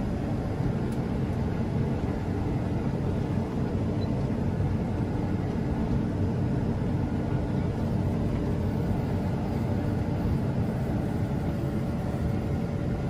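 Combine harvester running steadily: an even machine drone with a constant low hum and no change in pace.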